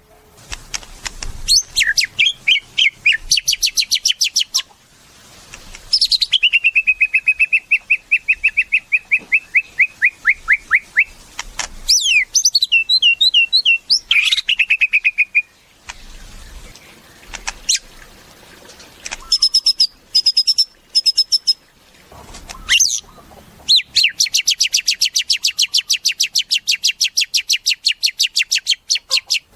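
White-rumped shama (murai batu) singing loud, varied phrases: quick rising and falling notes, long runs of rapidly repeated notes, and a long, very fast trill near the end, with short pauses between phrases.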